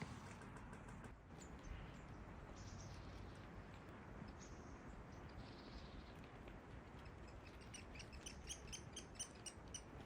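Faint birdsong: scattered high chirps from forest birds, then a quick run of short repeated notes near the end.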